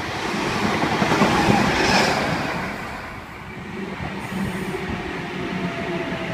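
V-set double-deck intercity electric train passing through the station, its rolling noise easing off about three seconds in. A faint steady whine starts near the end.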